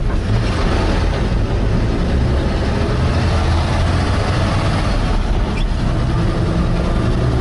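A 1979 Chevrolet C10 pickup's six-cylinder engine running steadily at low speed, a deep even hum with road and ambient noise over it.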